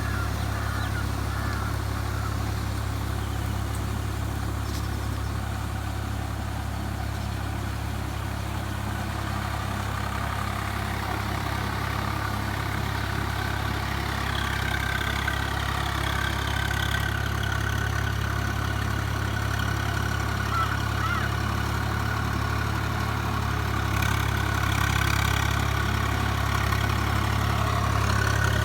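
Swaraj 744 FE tractor's three-cylinder diesel engine running steadily at a constant speed. Higher wavering tones join in about halfway through.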